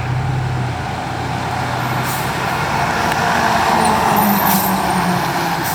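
Heavy truck's engine running and its road noise swelling as it passes close, loudest about four seconds in.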